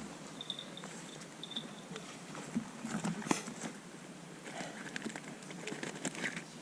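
Mountain bike tyres crunching over gravel, with scattered clicks and light rattles from the bike and a sharper knock about three seconds in.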